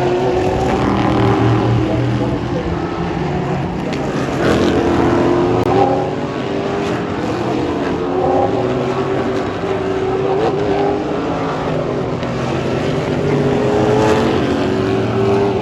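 Several race car engines running together, a loud continuous blend whose pitches climb slowly as the cars accelerate.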